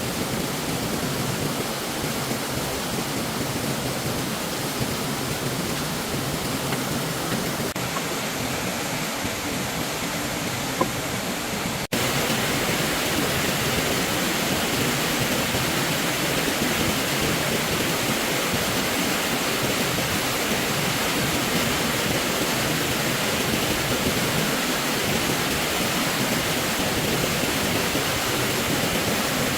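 Stream water rushing, a steady, even rush of flowing water. About twelve seconds in it cuts abruptly to a slightly louder stretch of the same rush.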